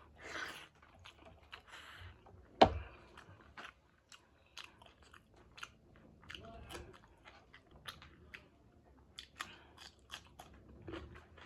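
A person chewing and biting food, with many small wet mouth clicks and crunches; one sharper, louder crunch or knock comes about two and a half seconds in.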